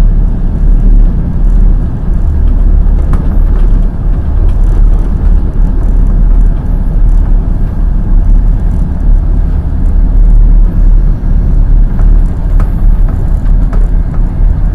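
Wheels of a passenger express train clattering on the rails at speed: a loud, steady low rumble with occasional sharp clicks from the wheels over the track.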